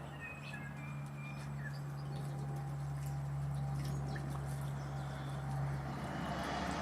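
A steady low mechanical hum, swelling slightly through the middle, with a few faint bird chirps in the first couple of seconds.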